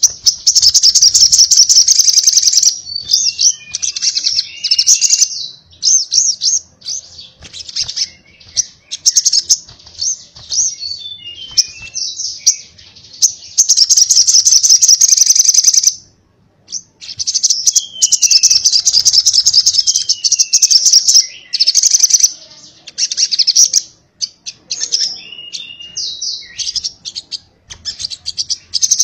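Crimson sunbird (sogok ontong) singing its rapid, buzzing 'konslet' song: long high-pitched buzzy trills lasting a few seconds each, broken by quick chirps and short falling notes.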